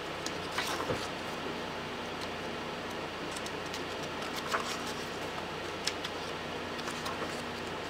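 A steady room hum with a few soft clicks and rustles of paper, from a desk calendar's pages being handled and turned.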